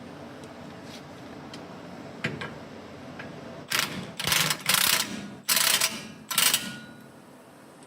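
Air tool run in about five short bursts in the second half, each with a loud hiss, after a few light clicks of metal parts.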